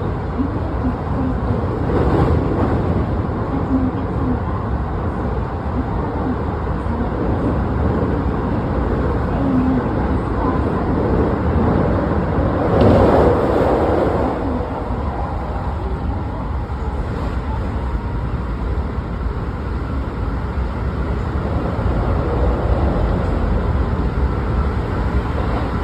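Steady rumble of a Keikyu New 1000 series electric train, with one louder swell about halfway through.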